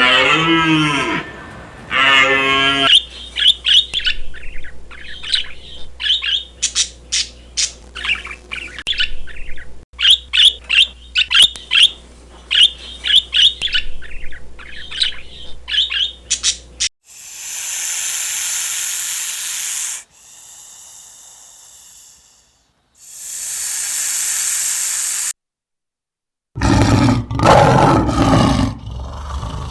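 A long run of quick, short bird chirps for over ten seconds. Then come several bursts of hiss-like noise, a brief silence, and a loud animal call near the end.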